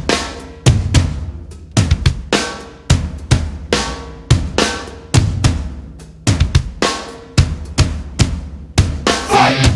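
Recorded rock track opening on a drum kit alone: kick, snare and cymbal hits in a steady beat. Other instruments join near the end.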